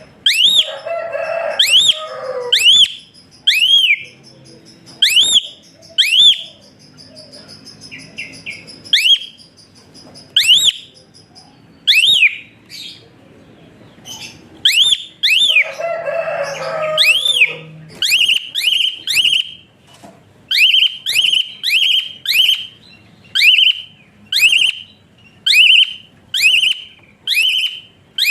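Asian pied starling (jalak suren) giving loud, sharp whistled notes, about one a second and then faster, close to two a second, in the last third. Two harsh chattering bursts fall near the start and about halfway through.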